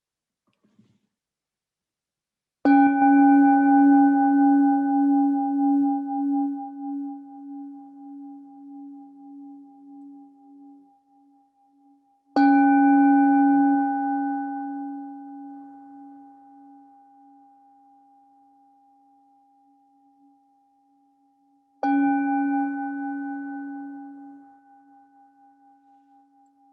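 Meditation bell struck three times, about nine or ten seconds apart, marking the end of the meditation practice. Each strike rings out and fades slowly.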